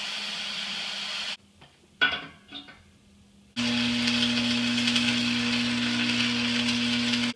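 Gas cutting torch hissing steadily, broken by a short pause with a single knock, then hissing again louder with a low hum underneath.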